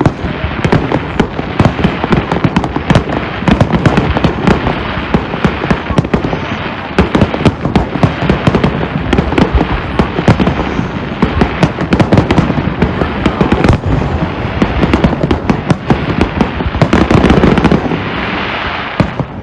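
Fireworks display: a dense, continuous barrage of bangs and crackles, swelling louder shortly before the end.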